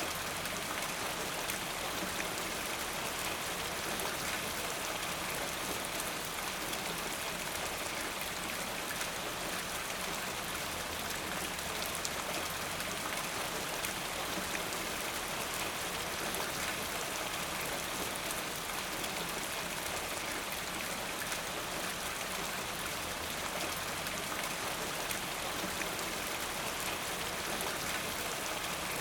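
Steady rain falling, an even hiss peppered with the small ticks of individual drops.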